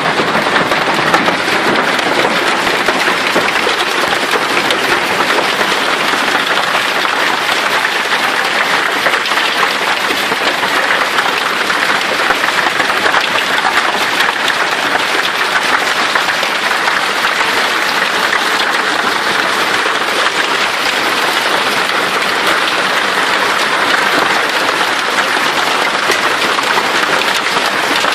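Heavy hail pelting down in a dense, steady clatter of countless impacts.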